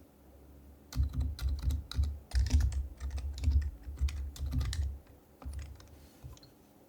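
Typing on an HHKB Professional HYBRID Type-S keyboard with Topre switches. A quick run of keystrokes starts about a second in, thins to a few scattered presses, and stops near the end.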